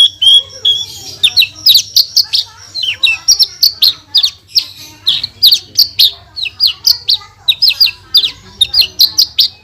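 Javan bush lark (branjangan) singing a fast, unbroken run of sharp, high notes that mostly slur downward, several a second.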